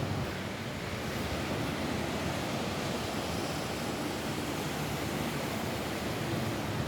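Rain falling steadily on a roof: an even, unbroken hiss with a low rumble beneath it.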